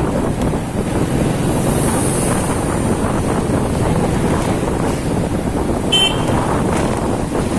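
Wind buffeting the microphone over a motorcycle's engine and tyre noise while riding in city traffic. A short high beep comes about six seconds in.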